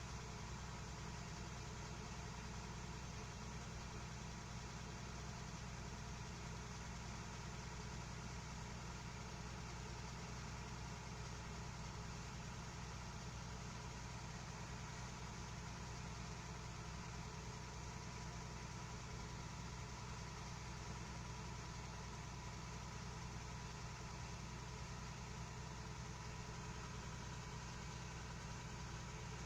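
Helicopter engine running steadily: a constant low hum with a steady whine above it, holding the same pitch and level throughout.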